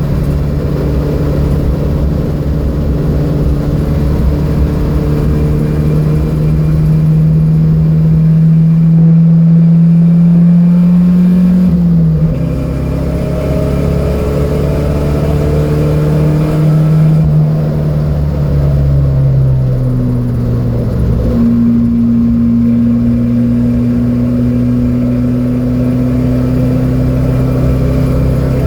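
Datsun B210 engine running hard on track, its pitch climbing slowly, dropping sharply about twelve seconds in as it shifts gear, falling again around eighteen to twenty seconds as the car slows, then pulling steadily and slowly rising toward the end.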